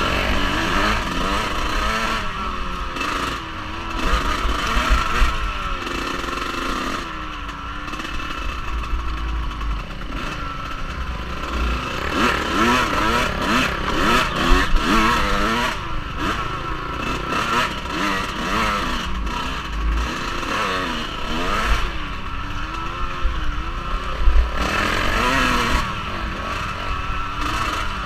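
Off-road vehicle engine revving up and down as it is ridden, the pitch rising and falling every second or two, with wind buffeting the camera microphone and some rattling.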